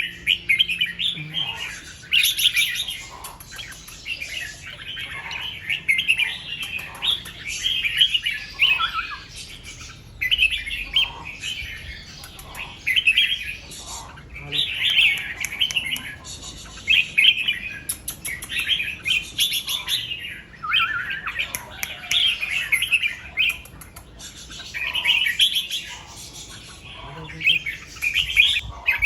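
Red-whiskered bulbul singing: short warbled song phrases, one after another with brief pauses between them.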